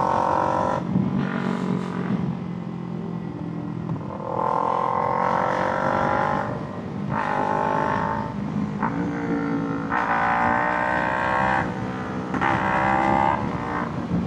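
Kawasaki Ninja 300's parallel-twin engine accelerating in several pulls, its pitch climbing in each and then dropping back between them as the throttle is rolled off or a gear is changed.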